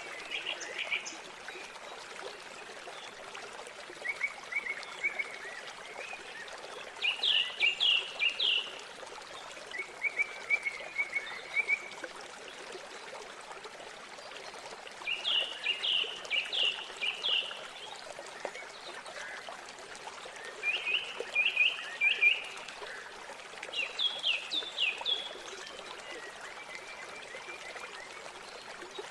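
River water running steadily, with a bird singing short phrases of quick, high repeated notes every few seconds.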